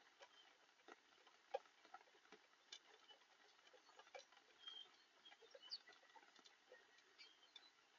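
Faint, irregular ticks and taps of raindrops striking nearby surfaces during a downpour, with a few brief, faint high chirps.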